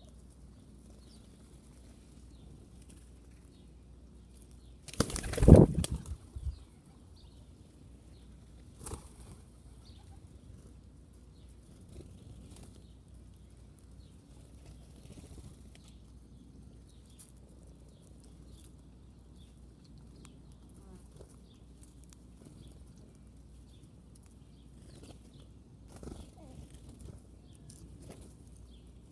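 A bird's wings flapping close by, one burst of about a second and a half some five seconds in, with faint bird chirps scattered through.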